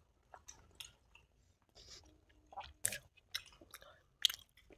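Close-miked chewing and wet mouth sounds of people eating soft, syrup-soaked rasgulla, made up of scattered short clicks and smacks. The loudest come about three seconds in and just after four seconds.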